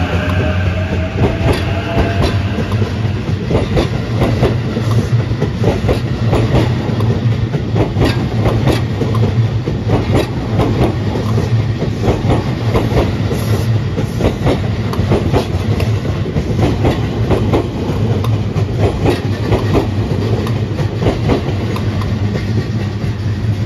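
JR East E353 series electric train pulling away and running past close by. Its wheels clack over the rail joints again and again over a steady rumble, and a rising motor whine is heard in the first couple of seconds as it accelerates.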